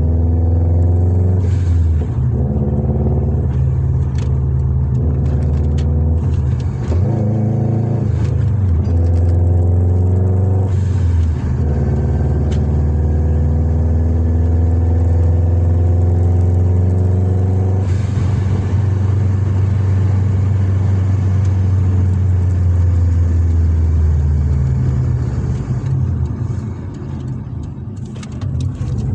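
Subaru Impreza WRX's turbocharged flat-four engine running with its uneven boxer rumble while driving, the revs climbing and dropping several times as it changes gear. Near the end it eases off and goes quieter before picking up again.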